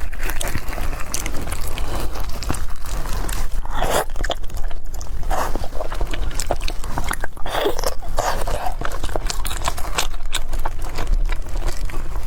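Close-miked eating: bites and chewing, with many small mouth clicks and a few crunches.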